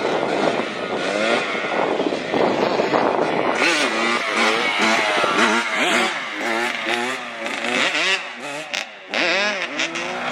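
Two-stroke Kawasaki KX100 dirt bike engines revving, the pitch rising and falling over and over as the throttle is worked.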